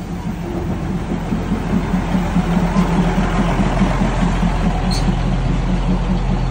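Diesel passenger train passing at arm's length, its engine and wheels on the rails making a steady rumble with an even low pulsing that grows louder. There is a single sharp clack about five seconds in.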